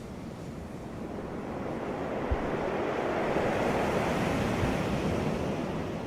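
Ocean surf: a wave swells up, breaks and washes back, its rush peaking a few seconds in and then fading. A brief low thump about two seconds in.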